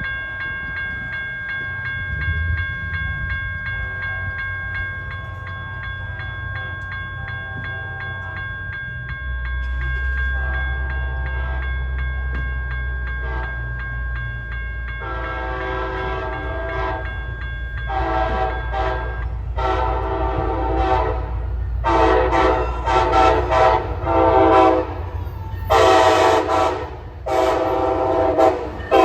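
Amtrak passenger train approaching: a bell rings rapidly and steadily while the locomotive's deep rumble builds about nine seconds in. About halfway through its horn starts sounding, a long blast followed by a run of shorter blasts that grow louder as it nears.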